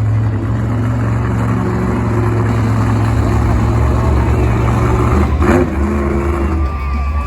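Big truck engine running loudly with a steady, deep rumble.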